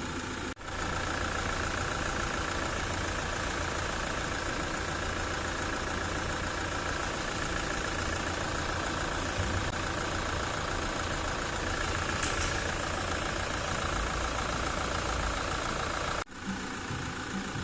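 Toyota 1GD-FTV 2.8-litre four-cylinder turbodiesel idling steadily with a new timing chain fitted; the chain rattle at the front of the engine is gone. The sound breaks off briefly about half a second in and again near the end.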